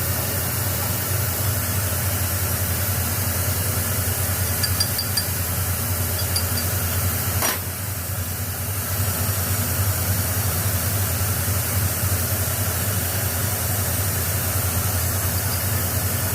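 Steady low electrical hum with hiss, broken by one sharp click about seven and a half seconds in.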